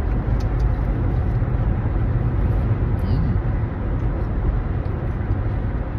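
Steady low rumble of a car heard from inside the cabin, the engine and road noise running evenly without change.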